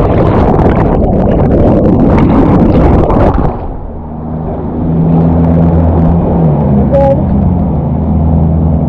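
Rushing noise of whitewater or wind on the microphone, cutting after about three and a half seconds to a motor vehicle's engine running with a steady low hum.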